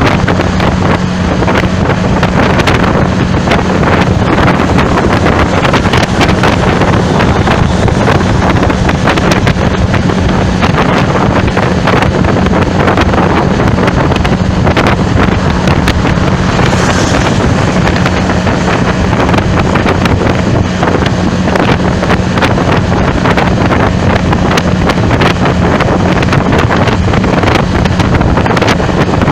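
Loud wind buffeting the microphone of a moving vehicle, over a steady low engine drone.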